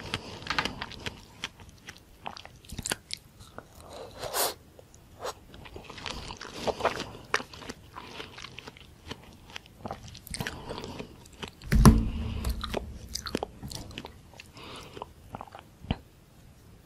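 Close-miked biting and chewing of white dragon fruit with whipped cream, a string of small sharp mouth clicks. One loud low thump about twelve seconds in.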